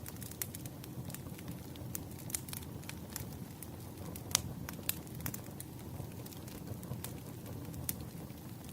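Wood fire crackling: irregular sharp pops and snaps from burning firewood over a low steady rumble, with one louder pop about four seconds in.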